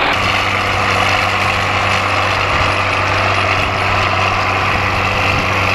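John Deere 4450 tractor's six-cylinder turbo diesel running steadily, a constant even hum, while pulling a planter through the field.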